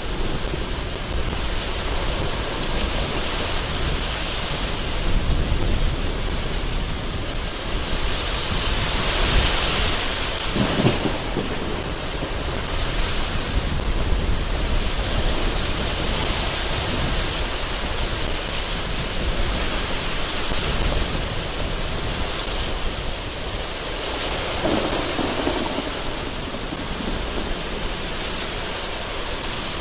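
Very heavy rain crashing against a window in strong, gusting wind, with thunder rumbling low in the background. The rush swells and eases in waves.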